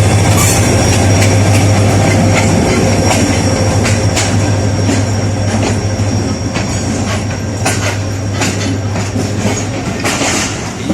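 Pakistan Express passenger train rolling slowly along the platform as it arrives. Its wheels clack over the rail joints with a thin high squeal over a steady low rumble, easing off slightly near the end.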